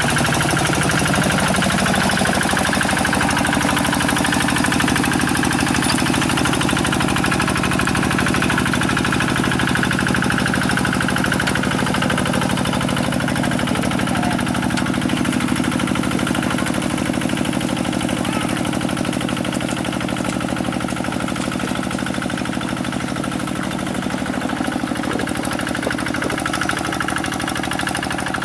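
Single-cylinder diesel engine of a Quick G1000 two-wheel hand tractor, running steadily while the tractor works in mud.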